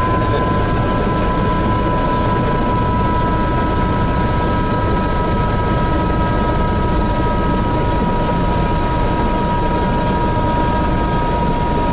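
Helicopter cabin noise in flight: a steady loud rumble of the engine and rotor, with a high, even whine held above it.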